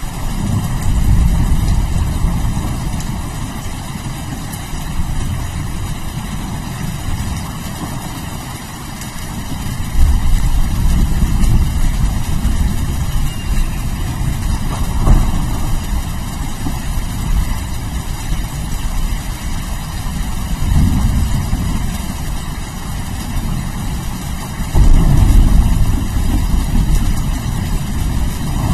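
Steady rain hissing under deep, rolling thunder; the low rumble rises sharply about a second in, again about a third of the way through, and once more near the end.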